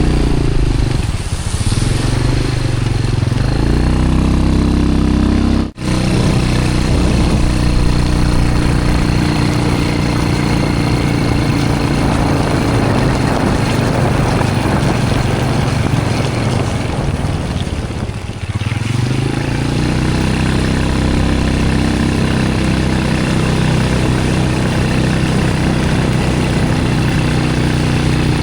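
Motorbike engine running at a steady cruise, with road and wind noise. The engine note eases off briefly twice, near the start and about eighteen seconds in. The sound cuts out for an instant about six seconds in.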